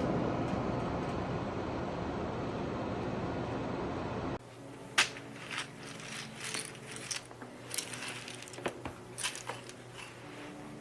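An air purifier fan running on its turbo setting: a steady rush of air. It stops abruptly, followed by scattered sharp clicks and clacks of plastic keycaps being handled and knocking together.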